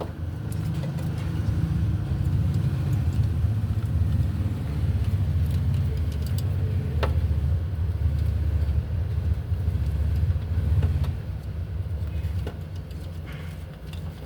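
Toyota Lite Ace's diesel engine running with a steady low rumble, louder from about half a second in, then settling lower about eleven seconds in.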